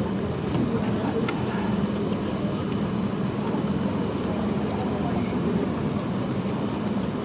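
Steady outdoor background noise with a low hum, like traffic and crowd bustle, with no drumming or music standing out.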